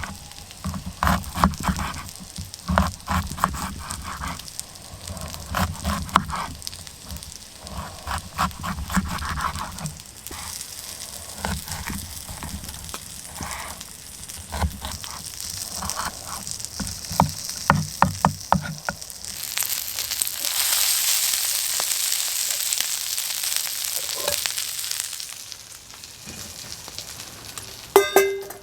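Food sizzling in a hot pan for about six seconds, starting about two-thirds of the way in and stopping abruptly. Before it comes a run of irregular clicks and knocks, and near the end a short ringing clink.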